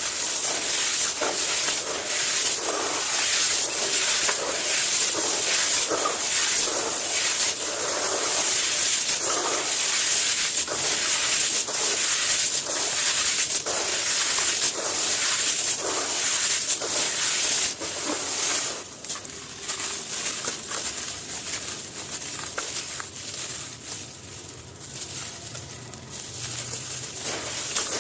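Dry, gritty material crumbling and crunching in a dense run of crackles, which thin out and get quieter about two-thirds of the way through.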